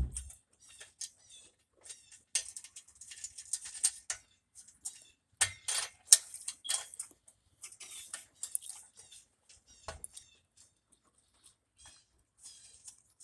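Irregular scraping and clicking of metal exhaust parts as a pipe is worked through and seated at the donut gasket joint under a Honda Civic.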